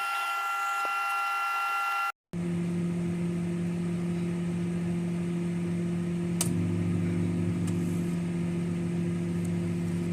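Microwave oven running with an egg inside: a steady hum. The sound drops out briefly about two seconds in and comes back as a lower hum. A click about six seconds in adds a deeper layer to it.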